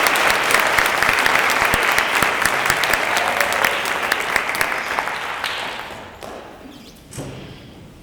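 Audience applause, dying away about five to six seconds in.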